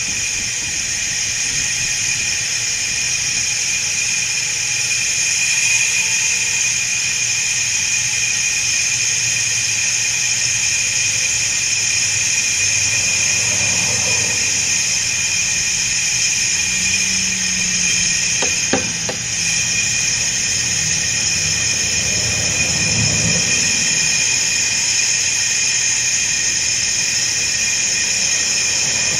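Compressed air hissing steadily through a homemade bottle smoker into a truck's exhaust pipe, pushing cigar smoke up the exhaust to find a leak. A low rumble runs underneath, and there is a brief tick near the end.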